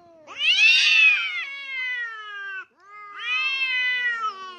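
A domestic cat giving two long, drawn-out meows, each sliding down in pitch, with a third, shorter meow starting at the very end.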